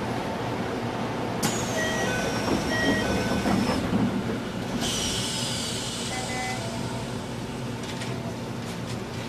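Keisei 3000 series commuter train heard from inside the car, with a steady hum. A sudden hiss comes about a second and a half in and another about five seconds in, with short electronic beeping tones between them.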